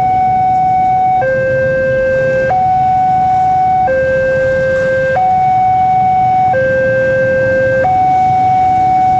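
Railway level crossing warning alarm sounding a two-tone hi-lo signal, switching between a lower and a higher steady tone about every 1.3 seconds, over a low rumble.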